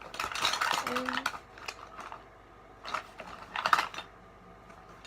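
Clicking, tapping and rubbing as small makeup items are handled close to the microphone, in two bursts of about a second each: one at the start and one about three seconds in.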